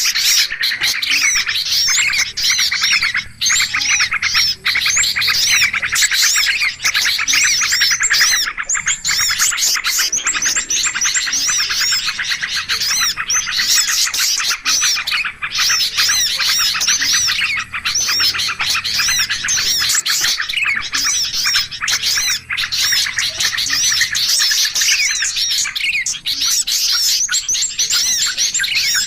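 Loud, dense chorus of many small birds chirping and calling over one another without a break, a bird-lure (pikat) recording made to draw wild birds in.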